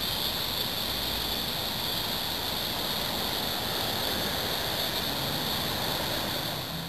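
Steady evening insect chorus: an unbroken, even high-pitched drone with no single calls standing out.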